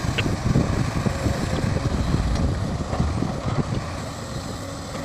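Heavy construction machinery's diesel engine running, a low, uneven sound.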